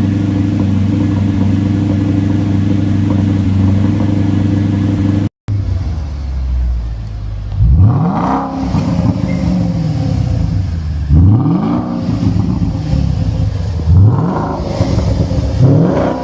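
Supercar engine and exhaust running at a steady drone, then after a cut, four sharp revs, each rising quickly in pitch and falling back, a few seconds apart.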